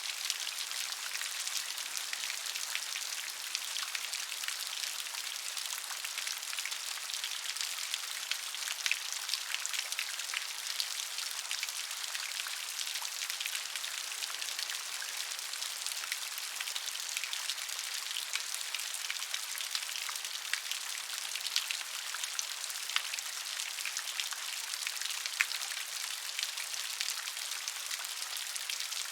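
Steady gentle rain: a soft hiss with a dense patter of individual drops, no thunder.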